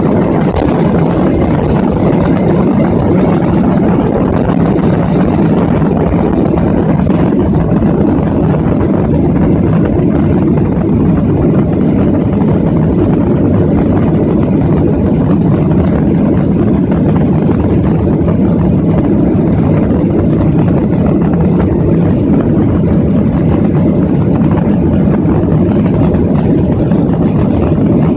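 Steady, loud jet engine noise heard inside an airliner cabin, the engines at high power for takeoff or initial climb, with a dense low rumble and no change in level.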